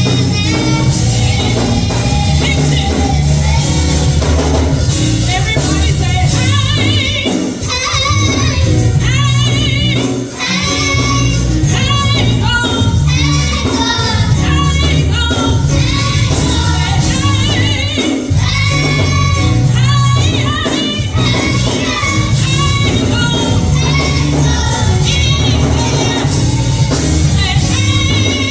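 Live gospel music: voices singing with wide vibrato, choir-like, over a steady bass line and band accompaniment.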